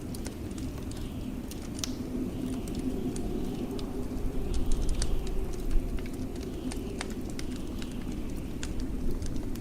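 Wood fire crackling with irregular sharp pops and snaps over a steady low rumble of blizzard wind.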